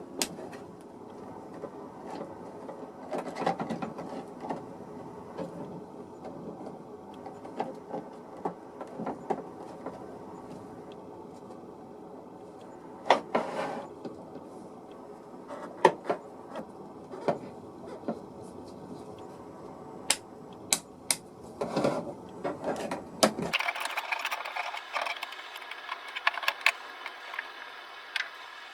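Irregular clicks, taps and knocks of small parts and tools being handled at a workbench. About 23 seconds in, the background changes abruptly to a thinner, brighter one.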